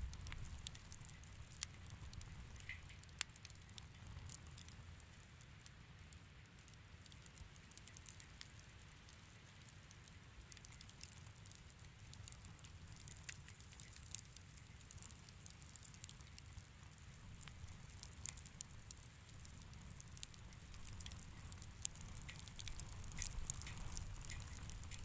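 Wood fire crackling softly in a fireplace: scattered sharp pops and snaps over a low steady rumble, coming more often near the end.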